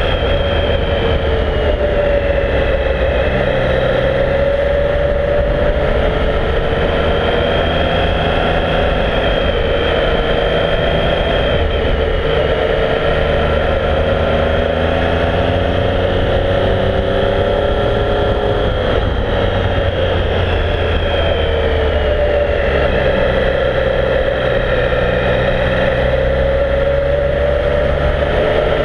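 Triumph Speed Triple's three-cylinder engine running steadily on the move, its pitch slowly rising and falling every few seconds with the throttle.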